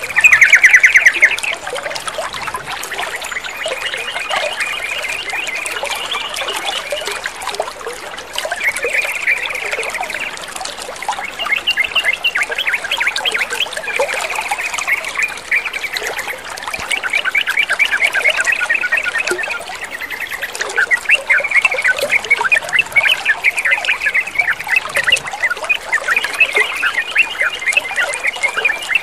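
Yellow-vented bulbuls (trucukan) chattering in quick repeated phrases over a steady trickle of running water; the loudest burst of calls comes right at the start.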